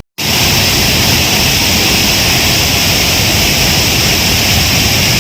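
Waterfall in heavy monsoon flow: a loud, steady roar of rushing, falling water.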